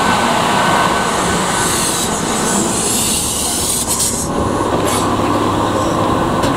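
Fujikyu 1000 series electric train pulling slowly into a station platform, with its wheels running on the rails. A loud hiss swells about two seconds in and cuts off sharply around four seconds, followed by a steady low hum from the train's equipment.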